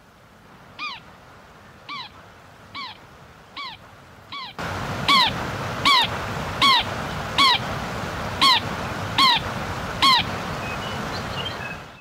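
A bird repeating a short, curving whistled call about every 0.8 seconds, twelve times. About halfway through, the calls become louder over a steady background hiss.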